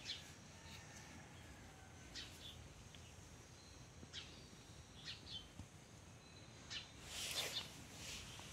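Faint outdoor ambience with scattered short bird chirps and a few thin whistled notes, and a brief louder rustle about seven seconds in.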